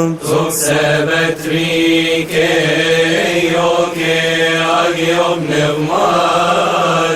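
A man's voice chanting a long drawn-out melody in the style of Coptic Orthodox prayer chant, holding steady notes and sliding between them, with a few short breaths.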